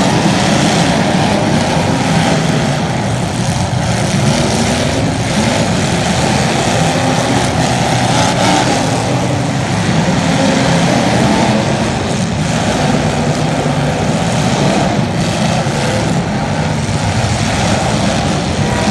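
Racing engines running loudly and without a break, their pitch shifting up and down.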